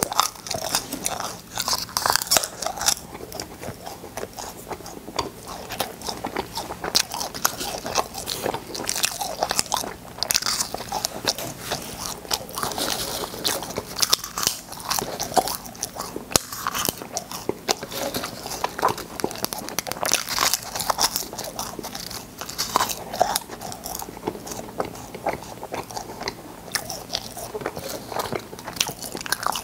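Close-miked crunching and chewing of hard cola-flavoured space candy: rapid, irregular crisp cracks and crackles as the pieces are bitten and ground.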